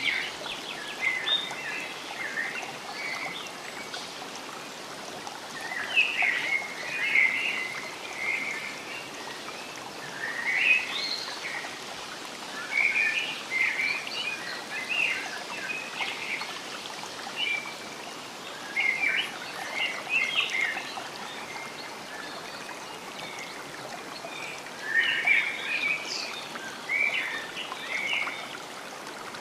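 Forest ambience: birds chirping and calling in clusters of quick notes, over a steady background of running water.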